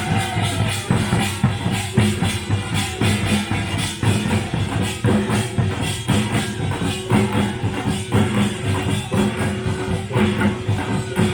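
Pungmul (nongak) Korean folk percussion band playing loudly: rapid, dense drum strokes, with a steady ringing tone held through the second half.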